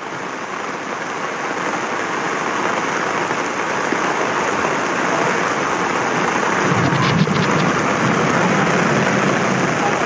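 Heavy rain pouring down in a steady hiss that slowly grows louder, with a low rumble about seven seconds in.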